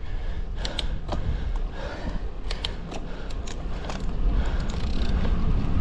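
Wind rumbling on the microphone of a moving road bike, growing louder toward the end, with scattered small clicks and ticks.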